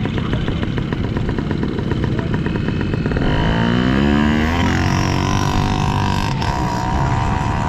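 Small motorcycle engines running in a race: a rapid firing rattle at first, then about three seconds in one engine revs up with a rising pitch and holds a steady high note as it pulls away.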